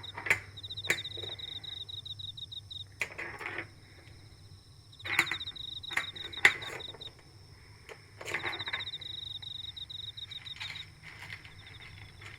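Asari clams clicking and clattering as a cat paws at them in water: a string of sharp knocks, in small clusters a few seconds apart. Crickets chirp steadily in a fast pulsing trill behind them.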